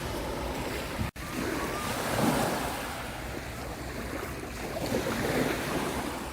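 Small lake waves washing onto the shore of Lake Ontario in surges, with wind buffeting the microphone. The sound drops out for an instant about a second in.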